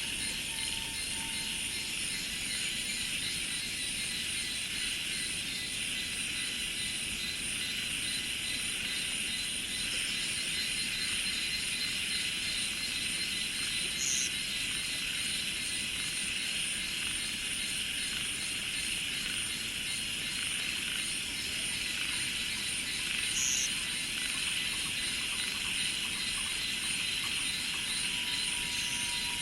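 Dense insect chorus: a steady high-pitched buzzing with a fast pulsing trill above it. Two short high chirps come through, about fourteen seconds in and again about twenty-three seconds in.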